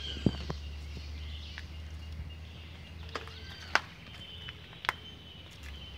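Birds calling outdoors with repeated short, arching whistled notes, over a low steady rumble, with a few sharp clicks.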